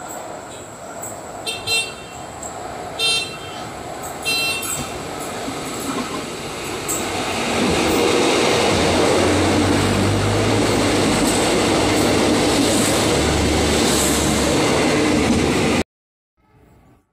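A diesel local commuter railcar approaching and passing along the platform track. It gives three short horn toots early on, then the rumble and rush of its wheels on the rails builds to full loudness as it passes. The sound cuts off suddenly near the end.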